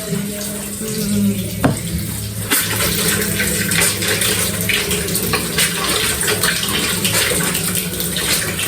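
Water running in a bathroom, getting louder and splashier about two and a half seconds in.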